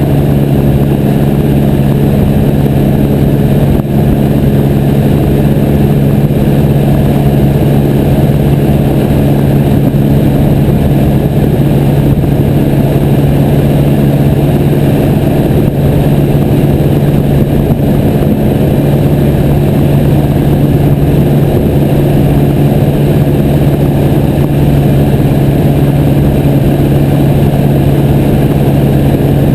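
Piper J3 Cub's engine and propeller droning steadily in flight, holding one constant pitch.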